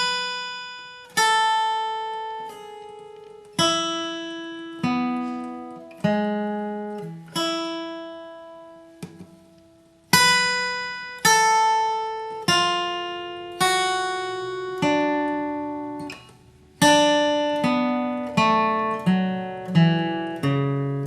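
Acoustic guitar playing a flatpicked bluegrass riff slowly, one note at a time, each note left to ring. There is a brief pause about halfway through, and the notes come quicker near the end.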